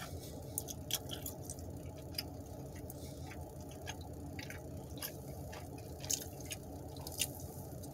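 Chewing a mozzarella cheese stick: soft, wet mouth smacks and small clicks scattered through, over a steady low hum.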